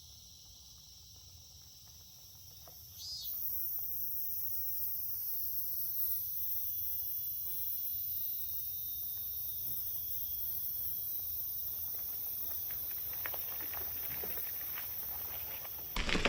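Steady high-pitched insect trilling, such as crickets, that comes in about three seconds in after a near-quiet start.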